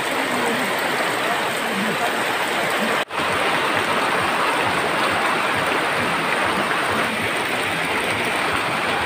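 Heavy storm rain pouring down steadily, with water running off a roof edge and splashing into a plastic basin. The sound cuts out for an instant about three seconds in.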